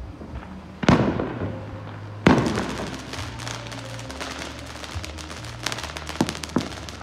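Fireworks going off: two loud bangs about a second and a half apart, followed by a long run of rapid crackling pops.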